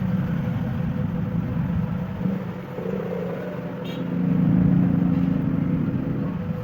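Steady low engine rumble that swells louder for about two seconds midway, with a single sharp click just before it.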